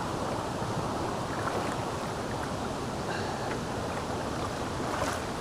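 Steady rush of a stream's current flowing over rocks at a wading crossing.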